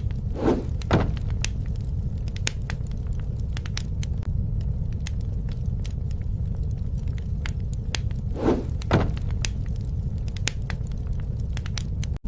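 Campfire burning: wood crackling with many scattered sharp snaps over a steady low rumble, with louder pops in pairs twice, near the start and about eight and a half seconds in.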